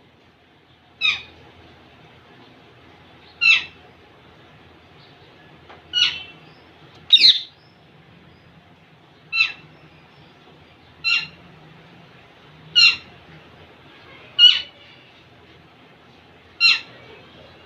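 Indian ringneck parakeet giving short single calls, one every two seconds or so, nine in all.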